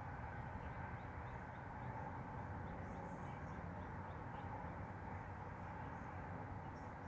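Steady outdoor background noise, with faint, short, high bird chirps scattered through it.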